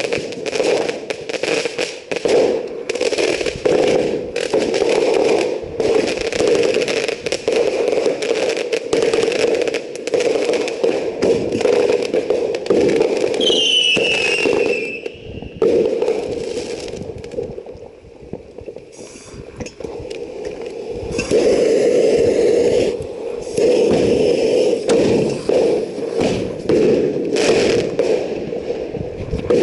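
Fireworks crackling in dense, rapid pops, with a short descending whistle about halfway through. The crackling drops off for a few seconds soon after and then picks up again.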